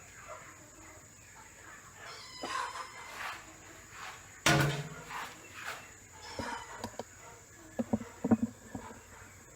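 Domestic animals calling: a few short pitched calls, then one loud sudden call about halfway through, and several short low calls near the end.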